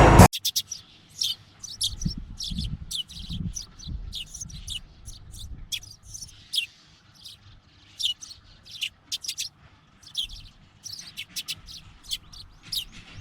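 Intro music cuts off right at the start, then small birds chirp outdoors in short, high calls, sometimes several in quick succession, over a faint low rumble.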